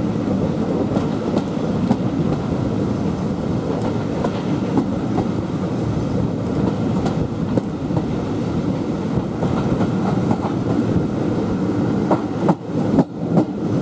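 Heritage railway passenger coach running along the line, heard at an open window: a steady rumble of wheels on rail with scattered clicks from the track joints. Near the end, the sound briefly drops and jumps unevenly.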